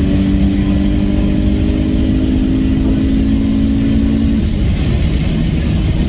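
Honda H23A four-cylinder VTEC engine pulling under load, heard from inside the car's cabin, its note rising slowly. About four seconds in the engine note drops away, leaving road and wind noise.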